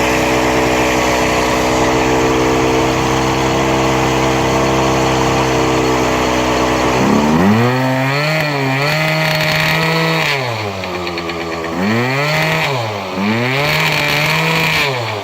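Yamaha Aerox scooter engine idling for about seven seconds, then revved three times, its pitch rising, holding and falling back each time before settling to idle near the end. The revs bring out a horrible strange noise that the owner suspects comes from worn crank bearings.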